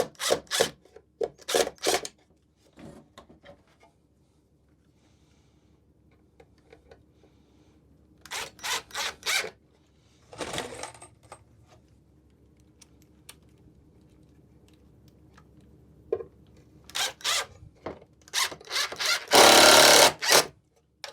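Power drill driving screws into wood: three groups of short, quick trigger pulses, then one longer steady run of about a second near the end.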